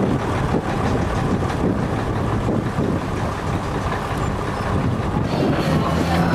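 A ferry boat's engine running steadily, with wind buffeting the microphone.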